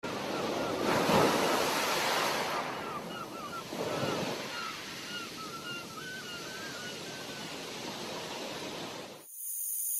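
Steady outdoor rushing noise of wind or surf, swelling about a second in and again around four seconds, with a run of short high chirping calls over it; it cuts off suddenly near the end.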